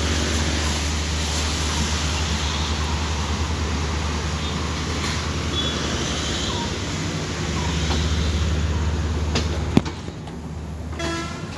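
Sri Lanka Railways Class S13 diesel multiple unit running past a station platform: a steady low engine hum under the rumble of wheels on the rails. About ten seconds in there is a single sharp click, then the train noise gets quieter.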